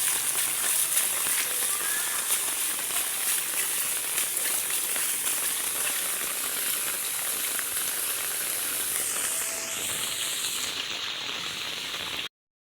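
Heavy rain pouring down, a steady dense hiss of crackling drops. It cuts off suddenly just before the end.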